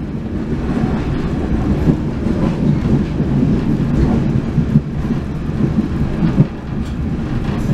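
Running noise of a moving passenger train heard from inside a Singosari Express carriage: a steady low rumble and rattle of the coach on the rails, with a couple of sharper knocks in the second half.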